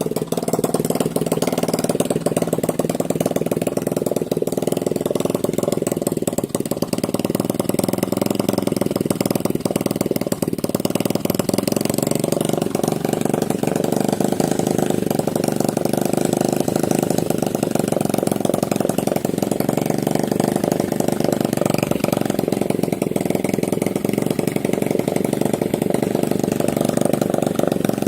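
Alpha 110cc single-cylinder four-stroke moped engine running steadily.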